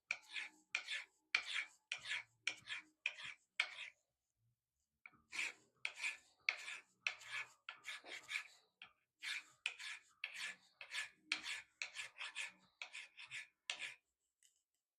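Hand file rasping back and forth on metal in steady strokes, about two a second, pausing briefly about four seconds in. This is filing down a wrought-iron fitting to bring up a copper inlay.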